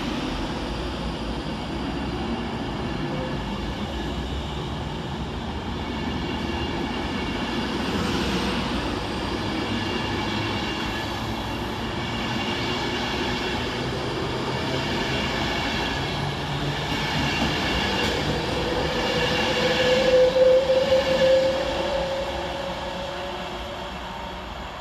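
Avanti West Coast Class 390 Pendolino electric train running through the platform with a steady rumble and high whine. About three-quarters of the way through, a squeal swells to the loudest point and then fades.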